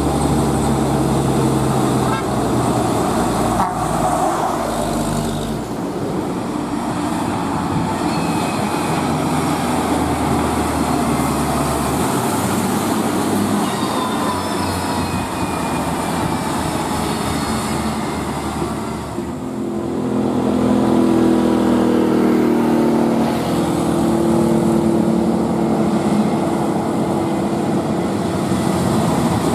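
Heavily loaded truck engine labouring up a hill in traffic, its note shifting as it works. About twenty seconds in, a louder, steadier tone joins it for a few seconds.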